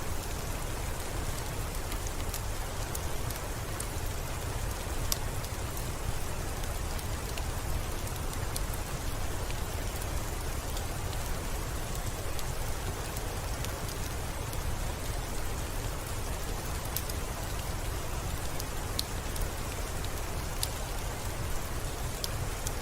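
Steady, even rainfall with a low rumble beneath and many scattered sharp clicks.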